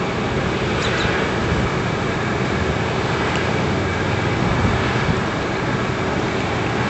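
Steady road and engine noise of a car driving, a low, even rumble.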